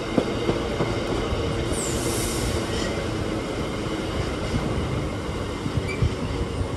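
Train running on the track with a steady rumble, and a brief high-pitched wheel squeal about two seconds in.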